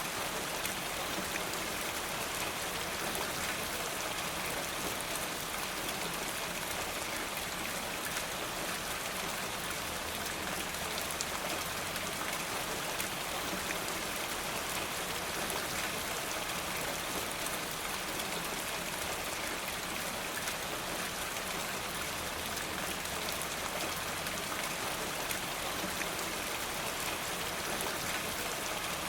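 Steady rain falling, an even wash of noise with a constant scatter of small sharp drip ticks.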